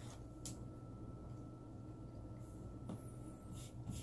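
Faint chewing and soft mouth sounds of a person eating a peanut butter and jelly sandwich, a few short smacks scattered through, over a steady low room hum.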